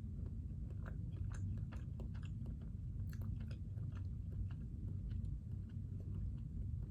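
Close-miked chewing of lo mein noodles, with many small, irregular wet mouth clicks over a steady low hum.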